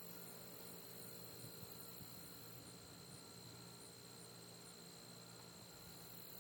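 Near silence: a faint steady hum and hiss, with no thunder.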